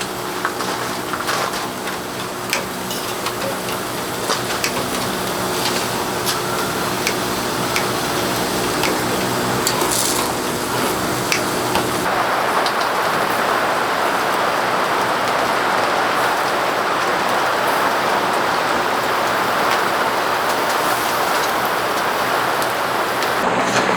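Rain falling, with scattered drop ticks over a faint steady hum. About halfway through it switches abruptly to a denser, louder downpour.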